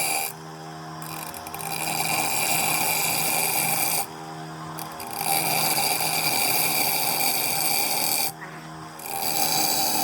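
A power tool working metal in long passes of a few seconds each. Its steady motor hum carries on through three brief breaks in the louder noise.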